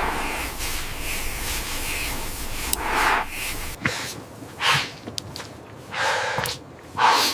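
Heavy breaths or snorts, four loud ones about a second to a second and a half apart, over a steady rushing noise with a low rumble that drops away about four seconds in.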